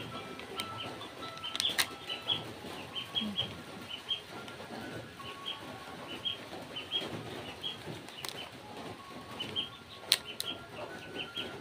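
Small birds chirping in quick, short, high notes that come in irregular runs. A few sharp clicks stand out about two, eight and ten seconds in.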